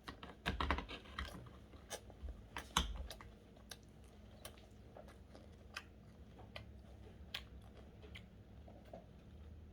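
Close-up eating sounds: chewing and biting with scattered short, crunchy clicks, busiest in the first three seconds and sparser after.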